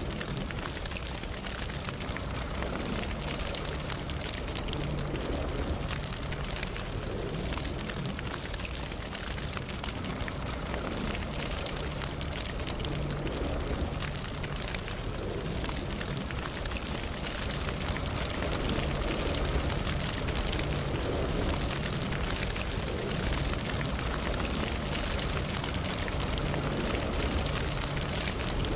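Campfire burning steadily, its wood crackling and popping in many small sharp ticks over a low rush of flame.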